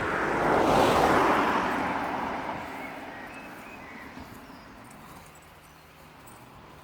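A vehicle passing by: its noise swells to a peak about a second in, then fades away over several seconds, with a few faint bird chirps.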